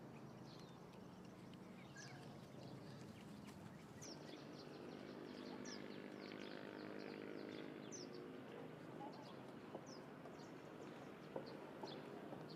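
Small birds chirping over quiet outdoor ambience: short high chirps that drop in pitch, about one a second.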